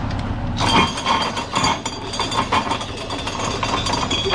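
Cordless drill driving a ratchet strap winder, reeling up a flatbed cargo strap: a whirring motor whine with a fast rattle, starting about half a second in.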